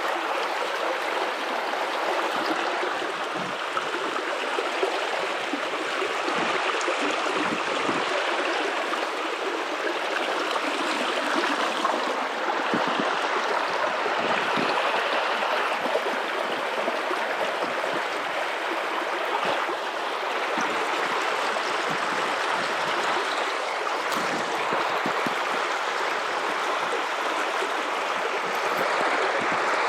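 Guadalupe River water running over rocks in a steady rush with some gurgling.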